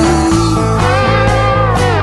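Rock music with a sustained, bending electric guitar lead over a steady bass and drum backing, between sung lines.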